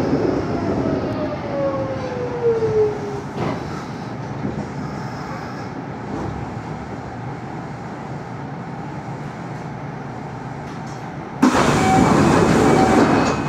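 Kintetsu electric train's motors whining down in pitch as the train brakes to a stop, then the steady hum of the stopped train. Near the end a sudden loud hiss sets in, as the doors open at the station.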